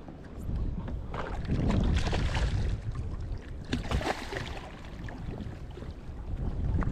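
Water sloshing and splashing around a kayak, with wind rumbling on the microphone, louder for a few seconds near the middle.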